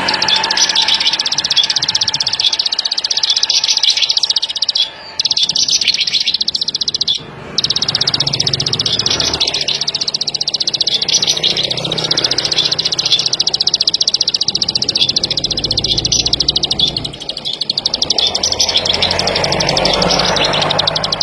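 Ciblek padi (ciblek sawah), a small prinia-type warbler, singing a very fast, dense chattering trill. It breaks off twice, briefly, about five and seven seconds in.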